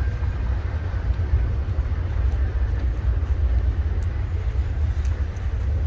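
Yamaha DT125 two-stroke enduro dirt bike being ridden nearby, its engine heard as a steady low rumble with no clear rise or fall.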